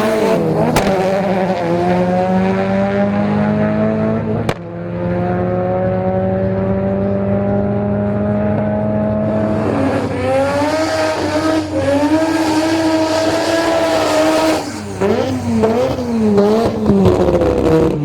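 Drag-racing car engines at full throttle, their pitch climbing steadily as the cars accelerate down the strip, with abrupt cuts from one run to the next. Near the end an engine revs quickly up and down.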